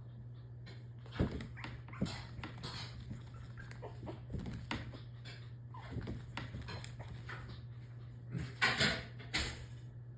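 Maltipoo puppy jumping again and again, its paws and claws knocking and clicking on the floor at irregular moments, the loudest cluster near the end. A steady low hum runs underneath.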